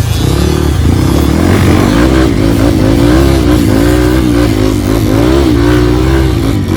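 Trail motorcycle engine running hard, its revs rising and falling over and over.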